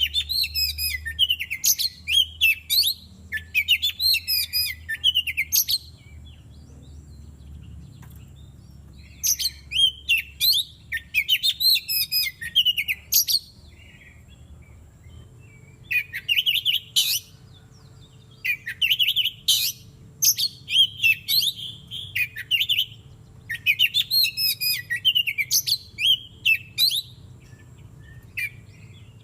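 Oriental magpie-robin (kacer) singing: rapid, varied high phrases in bouts of a few seconds, with short pauses between bouts.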